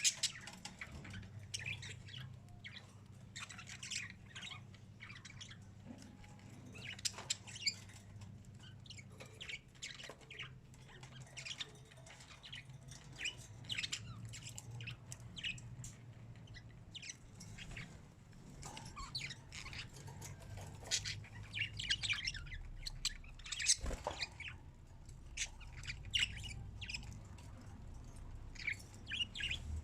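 Birds chirping and squawking in quick, short calls, over a steady low hum. One sharp knock partway through.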